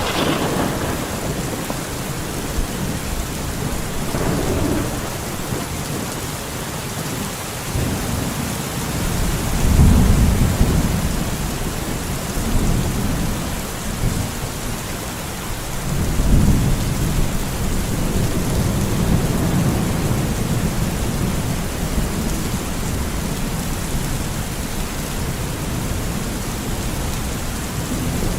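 Steady rain with rolling thunder: low rumbles swell and fade several times, the strongest about ten seconds in and again about sixteen seconds in.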